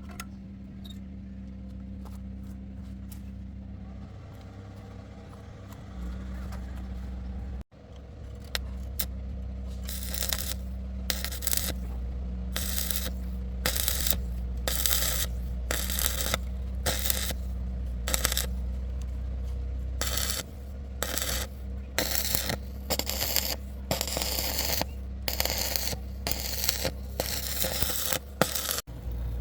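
Metal tools and parts scraping and clinking in repeated short strokes during mechanical repair work, over a steady low hum. The scraping starts about a third of the way in and continues, with brief breaks.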